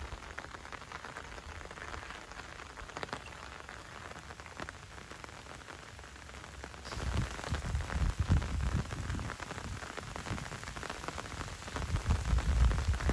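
Steady rain falling, a hiss of many small drop ticks. About halfway through, an uneven low rumble joins in and comes and goes.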